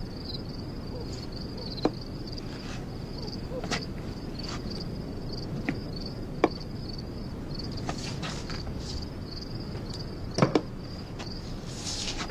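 Crickets chirring steadily, with a handful of sharp knocks scattered through it (the loudest, a quick double knock, about ten seconds in) and a short swish near the end.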